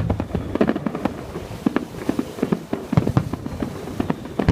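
Fireworks display going off: a dense, irregular volley of sharp bangs and crackles from bursting shells, several a second.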